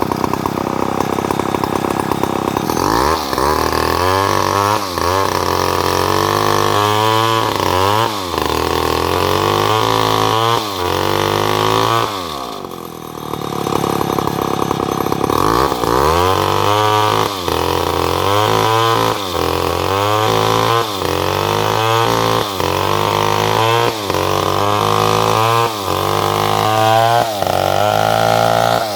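Chainsaw cutting salam wood, its engine running hard with the pitch dipping and recovering about once a second as the chain bites. About halfway through the engine drops back briefly, then revs up again and carries on cutting.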